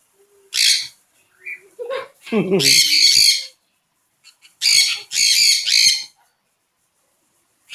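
Birds squawking with harsh, raspy calls: one short squawk about half a second in, a longer one around three seconds, then three more in quick succession around five seconds.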